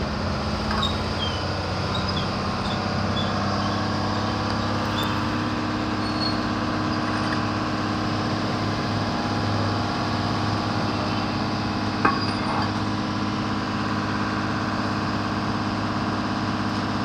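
Steady hum of a petrol pump's dispenser motor filling a motorcycle's tank, over road traffic noise, with one sharp click about twelve seconds in.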